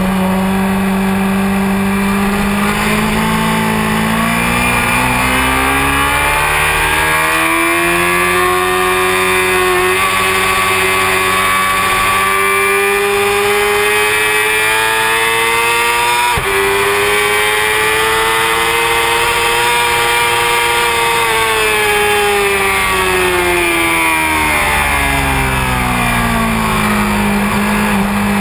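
Honda CBR600F4i motorcycle's inline-four engine at track speed: it holds a steady pitch, climbs for several seconds with a couple of brief breaks, then drops back down to where it began.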